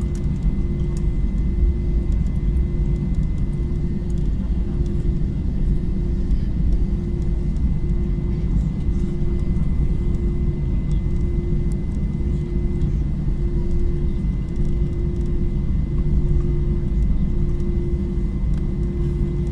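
Airbus A321-200 with its jet engines running, a steady low rumble that neither rises nor falls, with a steady tone and a hum that pulses about once a second.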